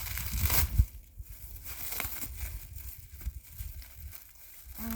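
Packaging crinkling and rustling as a small metal part is unwrapped, loudest in the first second and ending in a sharp knock, then quieter rustling.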